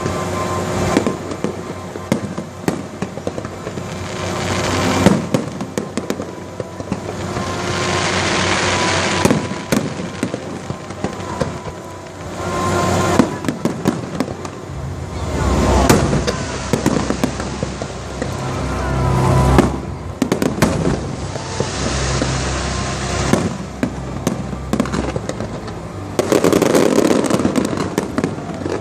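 Fireworks display: a continuous run of bangs and crackling bursts that swell and fade every few seconds, with music playing underneath.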